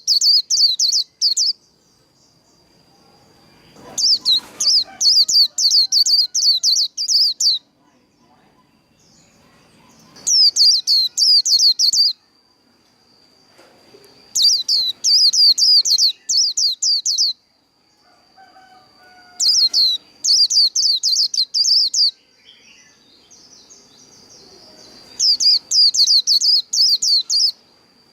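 White-eye (vành khuyên) singing its rapid warbling 'líu' song in bursts of quick high chirps, each two to three seconds long and repeated every four to five seconds. A faint steady high tone runs underneath.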